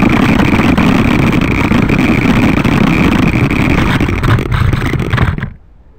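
Loud, steady vehicle motor noise that cuts off abruptly about five and a half seconds in.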